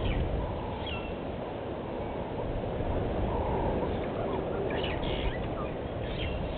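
Open bush ambience: a steady low rumbling hiss, with short high bird chirps and whistles a few times, at the start, around a second in, and again near five and six seconds.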